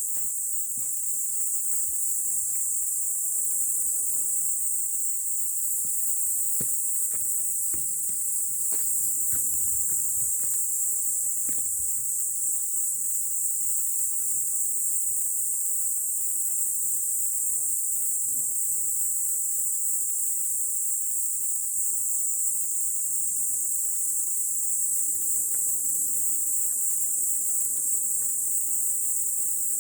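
A steady, high-pitched shrill of insects, crickets or cicadas, running unbroken. During the first dozen seconds it is crossed by irregular light clicks or ticks.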